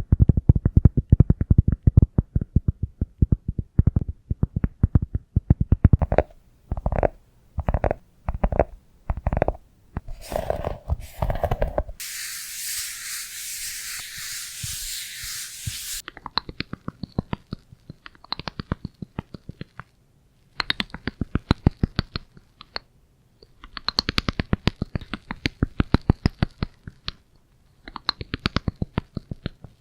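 ASMR trigger sounds made right at the microphone: fast runs of dull, low tapping and scratching, a steady hiss lasting about four seconds near the middle, then quick brighter taps in bursts with short pauses.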